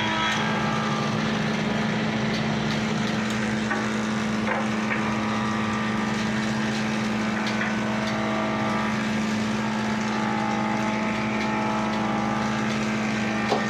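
Ceiling fan motor running with a steady electrical hum, with a few faint ticks along the way.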